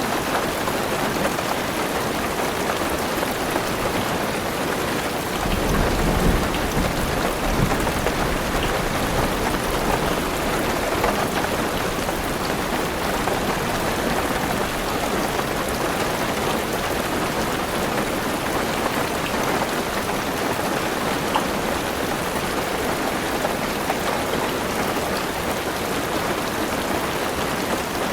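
Heavy rain falling steadily on a car's roof and windows, with a low rumble of thunder from about five seconds in that dies away by about nine seconds.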